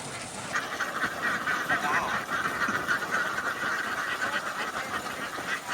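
A large flock of farmed ducks quacking all at once in a dense, continuous chatter, which stops abruptly near the end.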